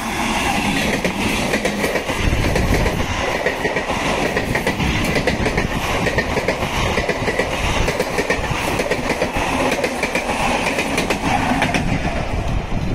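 Multiple-unit passenger train running past close by at speed: a steady rumble of running noise with the wheels clattering over rail joints.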